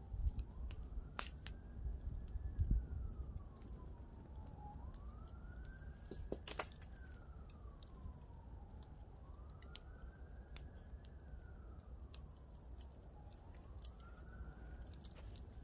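An emergency vehicle siren wailing slowly up and down, about four rises and falls, over the scattered pops and crackles of a wood campfire.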